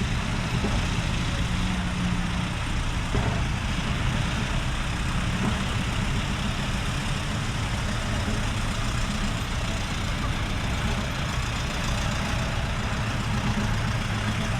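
Diesel engines of dekotora trucks idling steadily.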